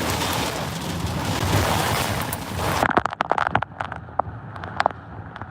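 Heavy roar of storm wind and rain, which about three seconds in turns abruptly muffled, with a rapid scatter of sharp clicks and cracks.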